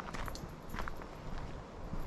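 Footsteps walking on a woodland path, a few short, uneven crunches underfoot over a steady low rumble.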